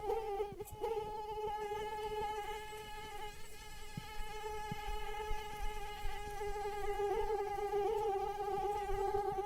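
Mosquito in flight: the high, whining hum of its wingbeats, steady and wavering slightly in pitch.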